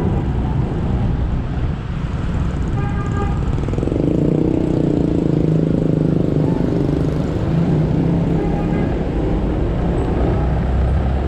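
Motorcycle engine running under way with steady road and wind noise. The engine rumble grows louder about four seconds in, and a short pitched tone sounds about three seconds in.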